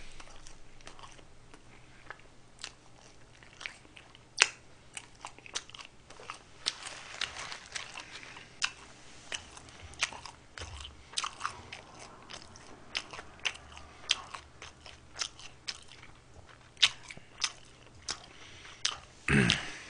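A man chewing a McDonald's burger close to the microphone: many short, irregular mouth clicks and bites. There is a brief voice sound near the end.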